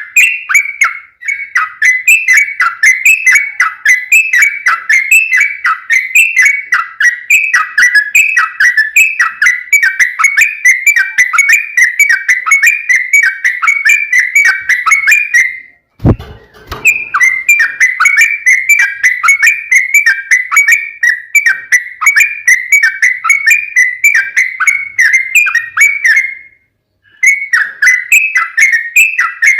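Yellow-vented bulbul singing a long, unbroken chatter of quick, bubbly whistled notes, several a second. It breaks off once with a short thump about halfway through and pauses briefly near the end.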